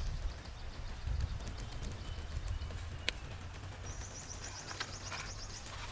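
A bird's rapid, high trill about four seconds in, over a low rumble with scattered light clicks and one sharp click a second before the trill.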